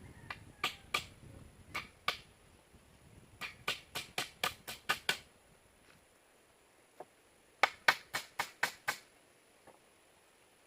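Sharp knocks in quick runs of two to seven, a few strokes a second, with pauses between the runs.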